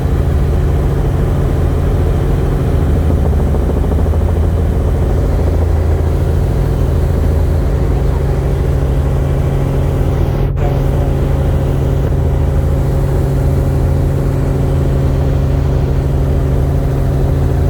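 Helicopter in flight: a loud, steady drone of engine and rotor, unchanging in pitch.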